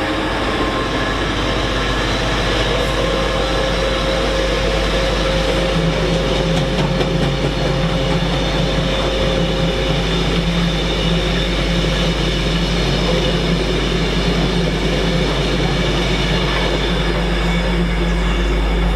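Freight train passing, hauled by a GBRf Class 66 diesel locomotive with its two-stroke V12 engine: a steady, loud rumble of engine and wagons rolling by, with a low engine tone through it.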